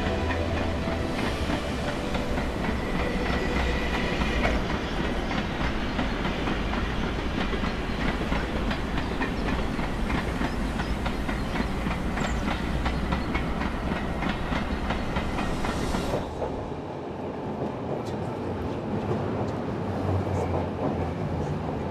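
Electric metre-gauge panoramic train running along the track, a steady rumble with wheels clicking over the rails. About three-quarters of the way through the sound suddenly becomes duller and a little quieter.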